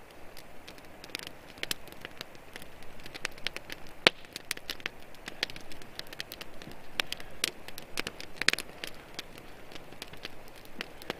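Venison backstraps sizzling in a pan over a propane stove, with steady spitting and frequent irregular pops.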